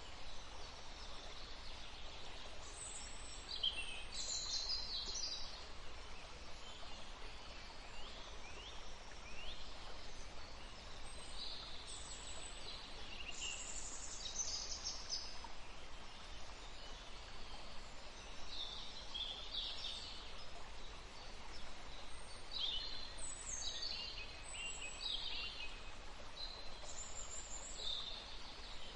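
Forest stream running steadily, with songbirds singing short, repeated phrases every few seconds over it.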